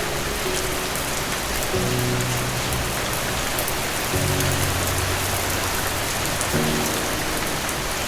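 Steady rain falling on a surface, with fine drop ticks, over soft low sustained music chords that change about every two and a half seconds.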